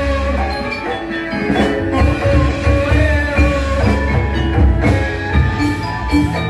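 Balinese gamelan ensemble playing: bright ringing metallophone notes over steady, loud drumming.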